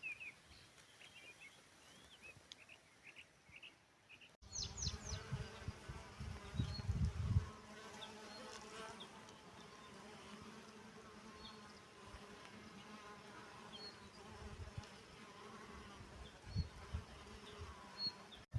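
Small birds chirp for the first four seconds. After a cut, a steady droning buzz of flying insects runs on, with low rumbling bumps on the microphone, loudest a few seconds after the cut.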